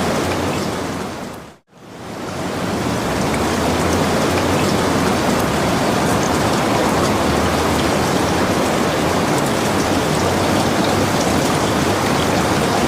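Steady rain falling, an even hiss with faint patter of drops. About a second and a half in it fades away to a brief silence, then swells back up to full strength.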